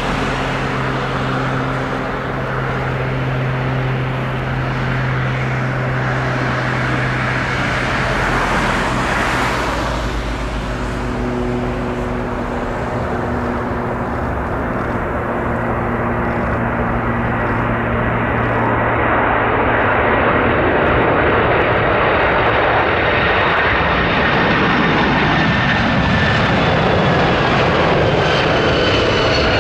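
Jet airliner engines running, a steady low drone that grows louder after about eighteen seconds, with high whines that slowly fall in pitch.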